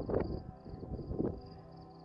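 Gusty wind buffeting the microphone, with a steady low hum underneath and a faint high chirping that repeats several times a second.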